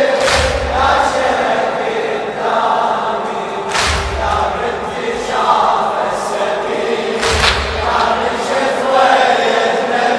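Crowd of mourners chanting a latmiyya refrain in unison, punctuated by a loud massed chest-beating slap three times, about every three and a half seconds.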